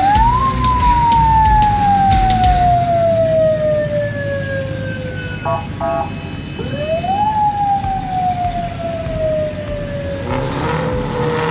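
Emergency vehicle siren wailing: the tone rises quickly, then falls slowly for about five seconds, and does this twice. A few short beeps come between the two wails, about halfway through.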